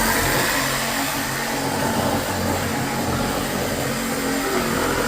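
DeWalt Atomic cordless power tool, most likely a drill, running continuously under heavy load with a steady motor whir and rough hiss.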